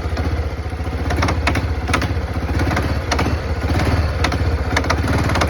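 1991 Kawasaki Bayou 300 4x4's single-cylinder four-stroke engine idling with sharp knocks sounding irregularly about once a second over the steady running. It is a clanking knock that comes only while the engine is cold and goes away once it warms up, and it persists after an oil change.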